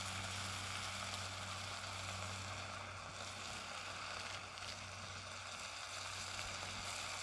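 Food frying in a pan over a paraffin-wax buddy burner, a steady sizzle, with a faint low hum underneath.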